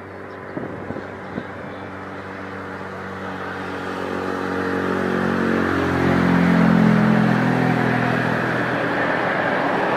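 Jet airliner's engines growing louder as the aircraft approaches and passes close by, peaking about two-thirds of the way through with the pitch sliding slightly down, then easing off. A few short knocks come in the first second and a half.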